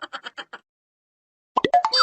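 Comedy meme sound effects. A fast run of repeated pitched pulses fades out within the first half second, and after a short silence a brief effect with falling pitch starts near the end.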